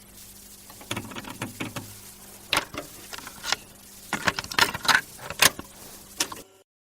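Irregular clicks, knocks and rattles over a low steady hum, cutting off suddenly near the end.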